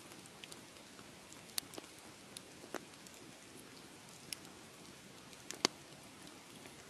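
Wood fire crackling in a fireplace: irregular sharp pops and snaps over a steady low hiss, with the loudest pop about five and a half seconds in.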